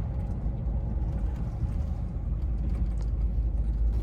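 Steady low rumble of a vehicle's engine and road noise heard from inside the cab while driving.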